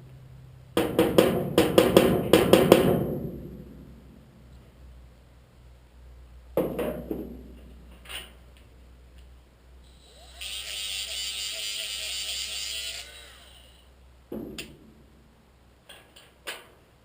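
Metalworking on a small sheet-steel patch piece: a quick run of sharp taps and knocks on metal, another knock, then a small grinder runs for about three seconds, followed by a few more light knocks.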